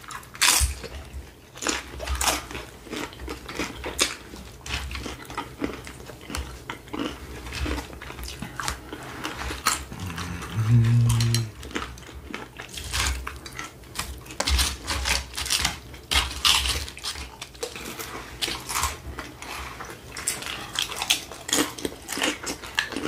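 Close-up chewing and crunching of Doritos tortilla chips and taco salad, many short crisp crunches one after another, with light fork clicks. A brief hummed "mm" about halfway through.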